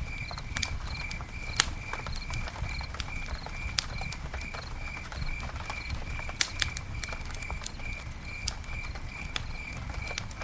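Campfire crackling, with irregular sharp snaps and a few louder pops over a low steady rumble. A cricket chirps evenly, about two to three chirps a second.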